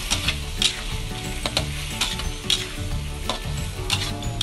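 Shell-on prawns sizzling in a wok in oyster sauce and light soy sauce as a spatula stir-fries them, the spatula scraping and knocking against the pan about twice a second.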